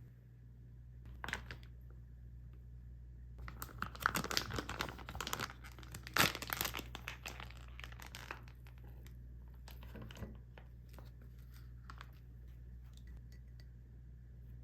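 Plastic food packaging being crinkled and torn open: a click about a second in, then several seconds of dense crackling and tearing, followed by a few light crinkles and clicks.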